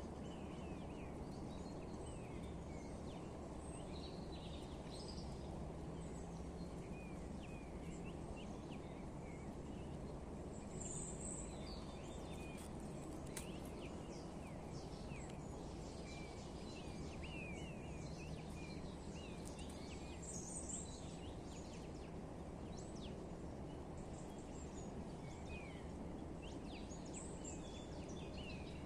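Birds chirping and twittering many times over, with short quick notes, some higher and brighter. Under them runs a steady low background noise.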